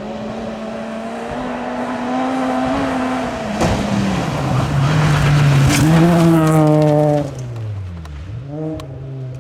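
VAZ 2113 rally car's engine at full throttle, its note climbing and briefly dipping around the middle. It gets loudest, then falls away sharply about seven seconds in, and its pitch drops before picking up again near the end.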